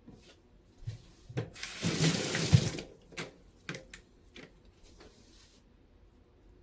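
Kitchen tap turned on briefly, water splashing into the sink for just over a second, with knocks and clicks of handling around it and a shorter, fainter run of water a couple of seconds later.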